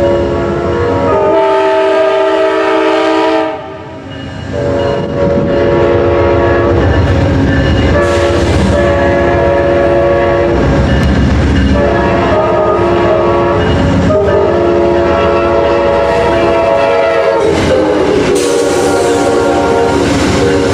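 Amtrak GE P42DC locomotives' Nathan K5LA five-chime horns blowing long salute blasts as two trains meet, the chord pausing briefly about four seconds in. About three-quarters through, the horn chord slides lower as a locomotive passes. Wheels rumble and clatter on the rails underneath.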